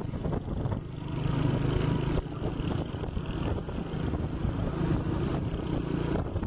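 110cc Honda Win motorcycle engine running steadily while riding, with wind noise on the microphone.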